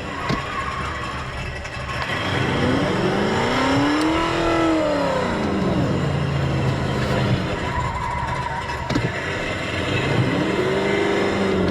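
Simulated Ferrari engine sound from an add-on sound generator on a Renault Fluence Z.E. electric car. Its pitch rises and falls like an engine revving up and back down, once in the first half and again, more briefly, near the end, over a steady low hum.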